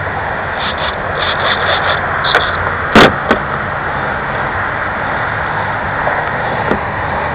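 Steady rushing noise with a run of about seven short high-pitched buzzes in the first two and a half seconds, then a sharp knock about three seconds in and a lighter one just after. These are the sounds of handling a radio-controlled model plane.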